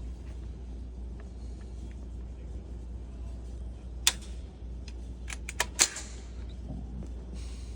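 Steady low hum with sharp clicks: one about four seconds in, then three or four in quick succession a little over a second later, the last the loudest.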